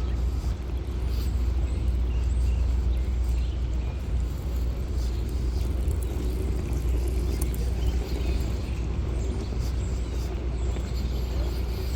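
Outdoor city-park ambience: a steady low rumble, with a few faint chirps now and then.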